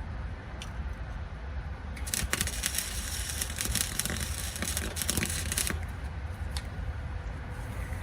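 Welding arc crackling in one continuous run of almost four seconds, starting about two seconds in, over a steady low hum.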